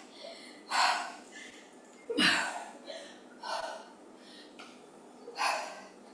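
A woman breathing hard with exertion during a squat-and-press exercise: four sharp, forceful exhalations about one and a half to two seconds apart.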